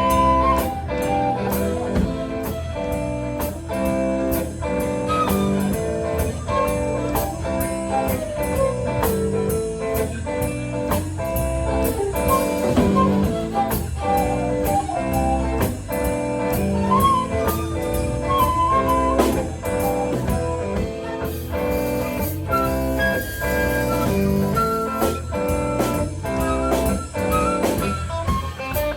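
Live band playing an instrumental break of a blues shuffle with drum kit and guitar, a flute playing a solo melody over it.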